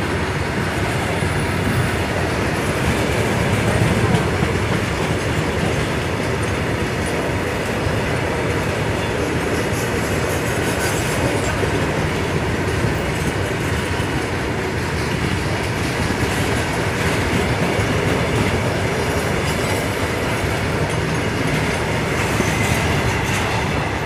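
Goods train of open steel freight wagons rolling past close by: a steady, loud rumble of wheels on the rails with many repeated clicks.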